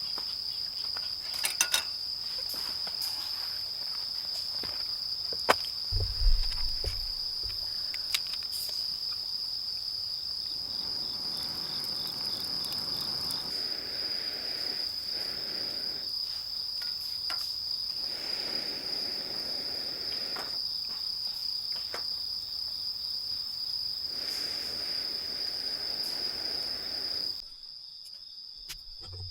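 Insects trilling in one steady, unbroken high note that stops abruptly near the end, with a few light clicks and knocks.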